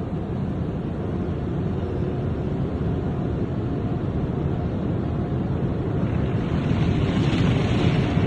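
Steady rushing of an automatic car wash's water and soap spray and machinery, heard from inside the car, growing louder over the last couple of seconds.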